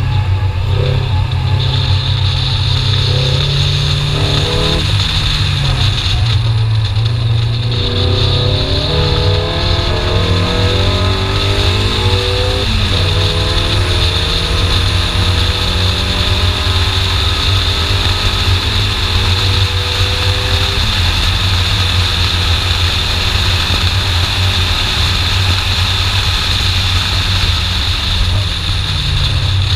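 BMW E30 318iS's four-cylinder engine driven hard, its revs climbing, with a sharp upshift about twelve seconds in, then rising more slowly before the engine note eases after about twenty seconds.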